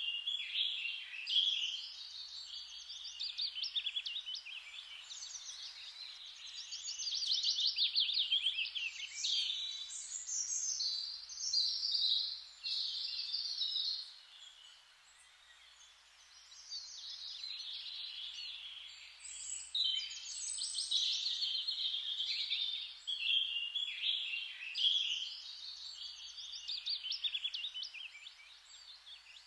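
Several songbirds singing at once, in dense overlapping chirps and rapid trills, with a short lull about halfway through.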